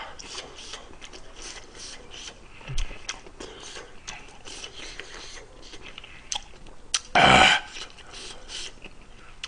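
Close-miked chewing of a mouthful of food, a quick uneven run of wet mouth clicks and smacks. One short, loud burst from the mouth about seven seconds in.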